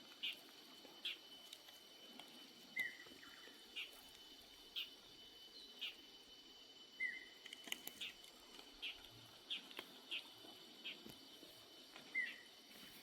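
Birds calling outdoors: short high chirps repeated roughly once a second, with a lower hooked note every few seconds, over a faint steady high tone.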